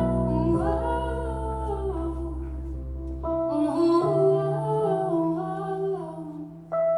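Live music: a woman's wordless, gliding vocal line, hummed or sung without words, over sustained keyboard chords, in a slow arrangement of a disco song.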